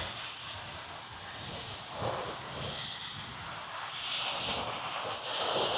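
Gentle surf washing onto a sandy beach: a steady hiss of breaking waves, swelling about two seconds in and again near the end.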